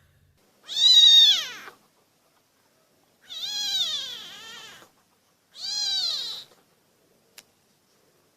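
A kitten meowing three times: high-pitched calls, each rising and then falling in pitch, the first the loudest and the second the longest.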